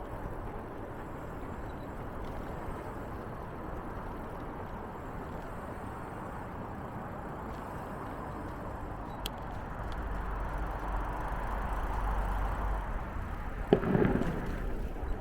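Steady rolling noise of a bicycle ride: tyres on the path and wind over the microphone. It swells in the second half, and a short rattle comes near the end.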